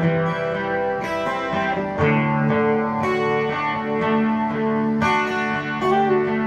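Guitar playing an instrumental passage between verses, plucked chords changing about once a second.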